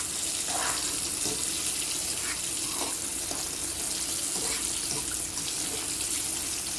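Steady sizzling hiss of chicken frying in hot oil in a pot, with a few faint crackles.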